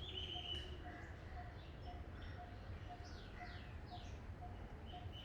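Birds calling and chirping in the open: a held high whistle at the start, then several quick falling whistled notes about three seconds in. Under them a short, low note repeats about twice a second, over a steady low rumble.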